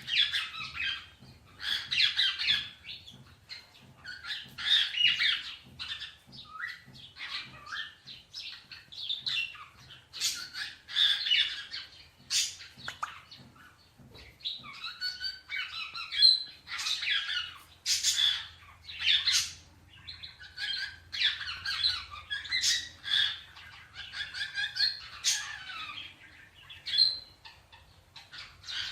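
Pet parrots, an Indian ringneck and an African grey, squawking and chattering in short bursts of calls that come about once a second, with a few gliding whistled notes.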